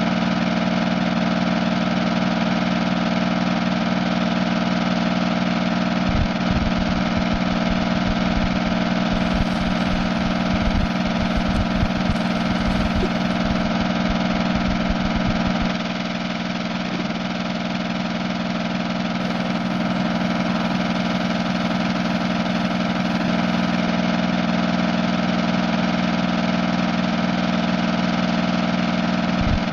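Steady, unchanging mechanical drone like an idling engine, starting suddenly. A few low knocks come through in the first half, and it dips slightly in level about halfway through.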